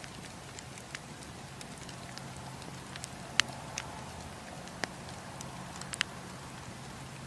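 Wood campfire crackling: irregular sharp pops and snaps of burning wood, the loudest about three and a half, five and six seconds in, over a steady low rush of the flames.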